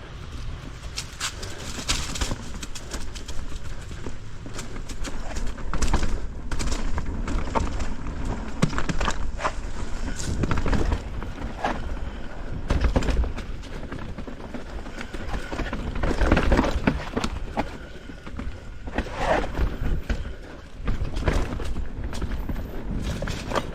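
Specialized Status mountain bike clattering down a rough, rocky downhill trail: tyres hitting rocks and roots and the bike rattling in a rapid, irregular run of knocks over a constant low rumble.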